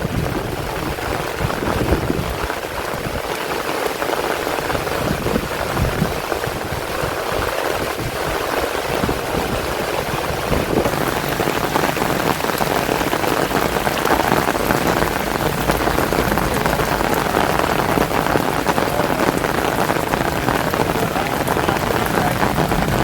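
Heavy rain falling steadily, a dense, even hiss that grows a little louder and fuller about halfway through.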